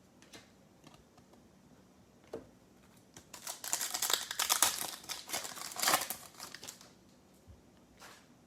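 Foil trading-card pack wrapper crinkling as a pack is torn open and handled, in a stretch of about four seconds from roughly a third of the way in, with a few light clicks of cards being handled before it.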